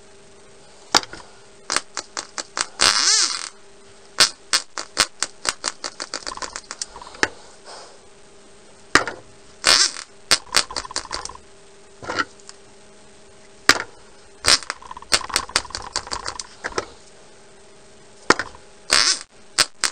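Tiny .049 model glow engine popping in short runs as its propeller is flicked over. It fires a few times at a growing pace and dies out, over and over, without catching: the engine won't start.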